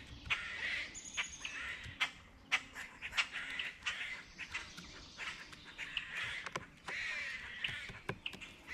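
Birds giving repeated harsh, crow-like calls, with scattered sharp taps throughout.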